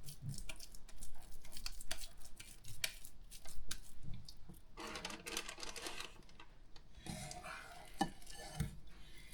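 Hands shaping raw minced meat into cutlets: soft squishing with many light taps and clicks, and short stretches of rustling about five and seven seconds in.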